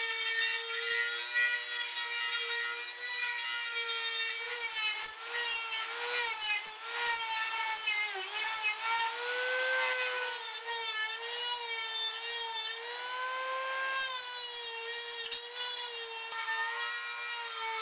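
Electric grinder running on steel, grinding down welds; its steady whine dips in pitch and recovers again and again as it is pressed into the metal, with one deeper dip about eight seconds in.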